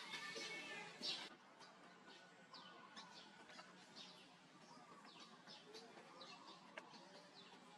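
Faint high chirping calls, many short downward-sweeping chirps, louder in the first second or so and then softer.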